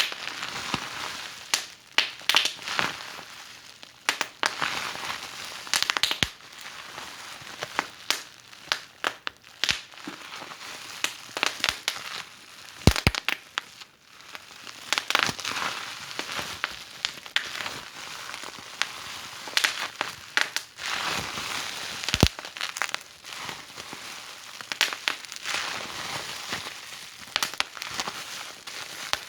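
Wood fire burning in a fireplace: a steady hiss with constant irregular crackling and occasional sharp, louder pops.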